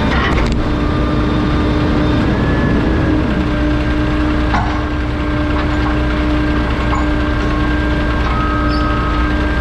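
Garbage truck running with a steady, non-stop hum over a low rumble, with a short click about four and a half seconds in.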